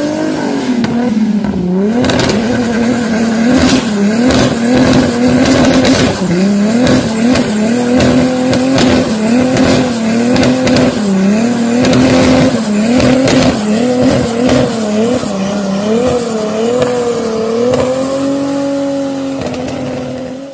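Mk4 Toyota Supra's straight-six engine held at high revs during a burnout, its pitch wavering and dipping every few seconds, with the rear tyres squealing and sharp pops crackling through throughout. The revs rise a little near the end before the sound cuts off.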